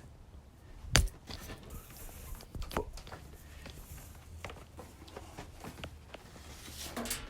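A sharp knock about a second in, then scattered light taps and clicks over a low steady hum.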